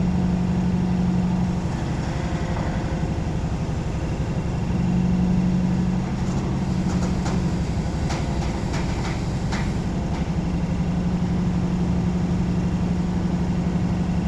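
Container truck's diesel engine running at low, steady speed, its note swelling a little a few times. A few light clicks come in the middle.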